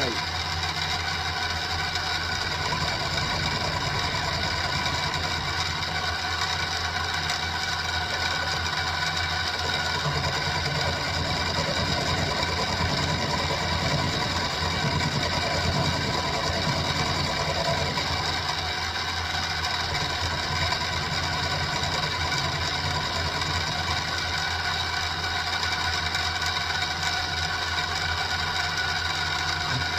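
Central Machinery (Sieg X2-type) mini milling machine running steadily, its motor and head gears giving a constant whine of several steady tones.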